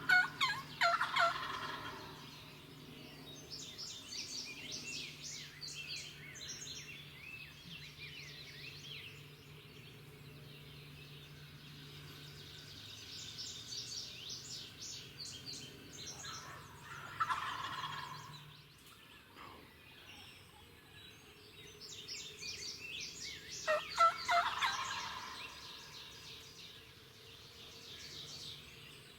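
Wild turkey gobbling three times: right at the start, a little past halfway, and again about seven seconds later, each a loud rattling burst. Songbirds chirp and sing throughout.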